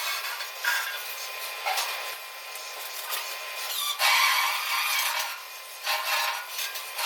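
Metalworking noise on a steel truck bed: irregular rasping, scraping surges of a tool working the metal. The longest and loudest surge comes about four seconds in.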